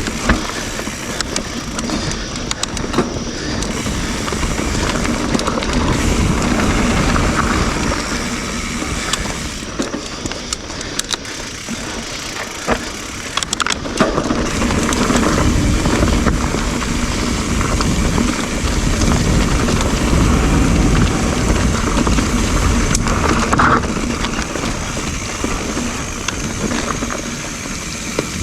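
YT Jeffsy full-suspension mountain bike ridden over dirt singletrack: tyres rolling over the trail with a low rumble, and the chain and frame clattering in quick rattles over bumps.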